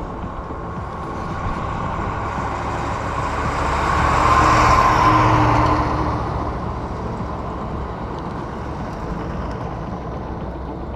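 A road vehicle passing on the highway. Its tyre and engine noise swells to a peak about four to five seconds in, then fades away.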